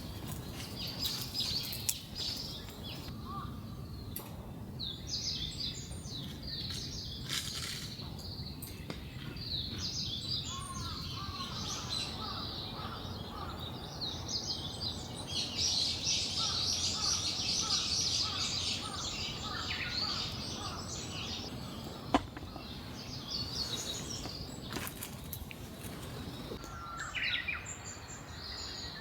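Wild birds chirping and calling over a steady low background hiss, with a dense spell of chattering song about halfway through. A single sharp click a little over twenty seconds in.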